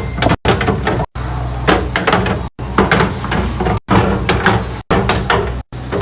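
Fridge restocking: a run of sharp knocks and clicks as containers, lids and fridge doors or drawers are handled and set in place, over a steady low hum, cut off by brief dropouts about once a second.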